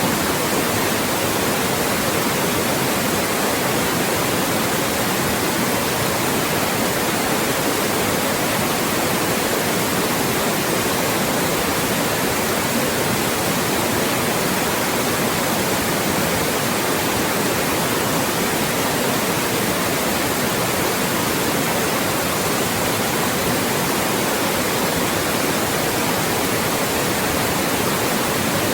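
Loud, steady white noise: an even, unbroken hiss across the whole range from low to very high, with no change in level or character.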